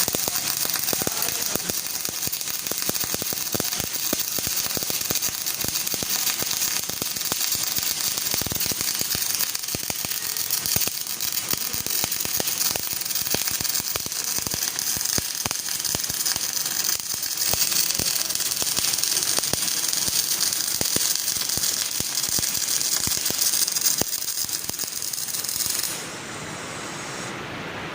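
MIG welding arc laying a root pass on a butt joint with 0.8 mm solid wire under shielding gas: a steady crackle of many rapid clicks over a hiss. The arc stops about two seconds before the end, leaving a quieter hiss.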